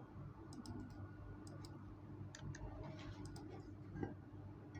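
Scattered light clicks, a few at a time, over a low steady hum.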